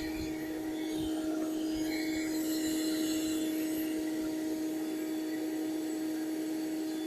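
Bee vacuum motor running steadily, a constant hum with a dull knock about a second in.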